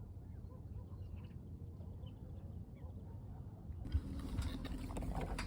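Outdoor ambience: a low wind rumble with faint, scattered bird chirps. About four seconds in it changes abruptly to louder, fuller noise with a single knock and a steady low tone.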